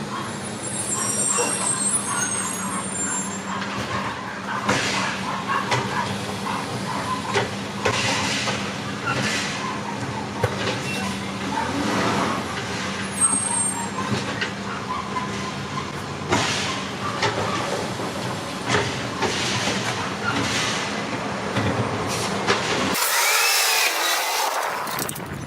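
Garbage truck engine running steadily while trash bins are lifted and tipped, with repeated clanks and bangs of the bins and lift. A loud air-brake hiss near the end.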